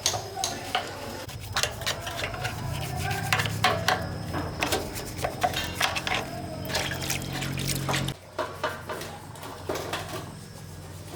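Metal parts and tools clinking and knocking in short, irregular taps, with a low steady hum from about two seconds in that cuts off suddenly about eight seconds in.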